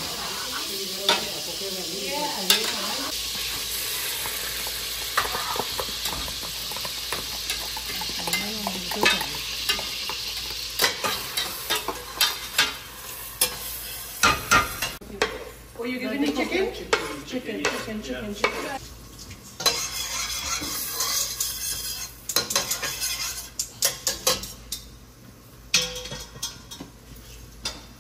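Duck pieces sizzling as they brown in a heavy pot, stirred with a metal spoon that scrapes and knocks against the pot. The sizzle fades after about ten seconds, leaving a spoon clinking and knocking in a stainless steel pot.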